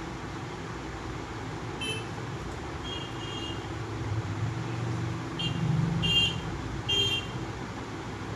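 Street traffic: a vehicle rumbles past, swelling and fading around the middle, while about five short, high horn toots sound.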